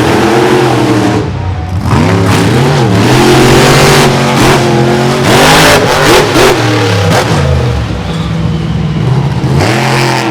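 Monster truck engine revving hard, its pitch rising and falling again and again, with loud noisy rushes through the middle.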